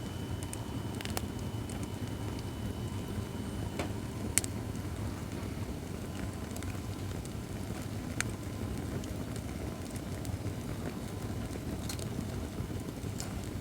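Acacia firewood burning in a fire-pit stand: a steady low rush of flame with scattered crackles and pops, the sharpest pop about four seconds in and another about eight seconds in.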